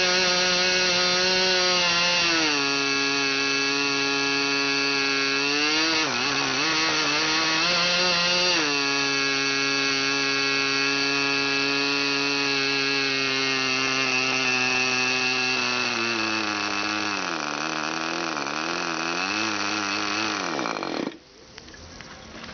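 Brand-new K&B .40 two-stroke glow engine running at high speed on 5% nitro fuel, turning a 10x6 propeller while being run in. Its pitch steps down slightly, wavers for a couple of seconds, then holds steady. Later it sags unevenly, slows, and stops about 21 seconds in.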